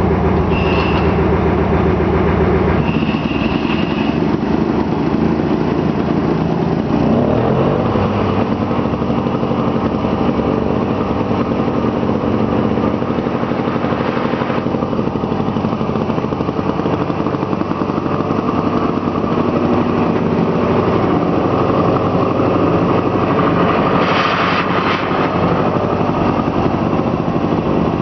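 Old diesel engine running steadily. Its note changes about three seconds in and rises around seven seconds, then holds steady.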